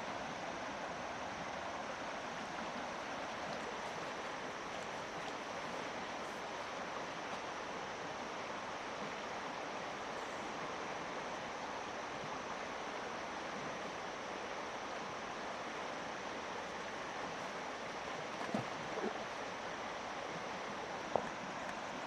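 Steady rush of flowing river water, with a few brief knocks or splashes near the end.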